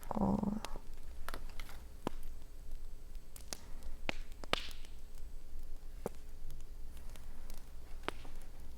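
Campfire crackling: scattered sharp pops and snaps, about one a second, over a low steady rumble.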